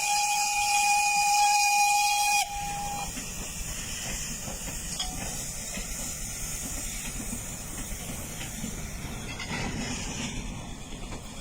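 Train horn held on a steady chord and cutting off about two and a half seconds in, followed by the steady noise of the train running.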